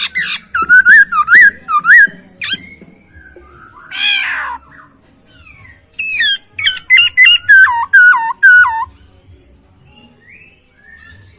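A poksay hongkong, a laughingthrush kept as a songbird, singing in loud whistled phrases. One run of repeated slurred whistles starts near the beginning and another starts about six seconds in, with a single harsher falling call between them.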